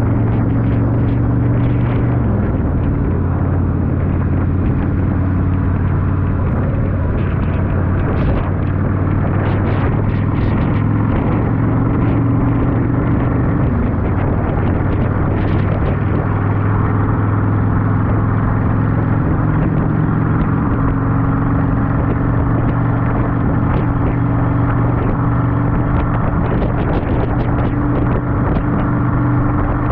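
Yamaha V-Star 1100's V-twin engine running steadily while the bike rides along, its pitch drifting a little with the throttle, under a steady rush of wind and road noise.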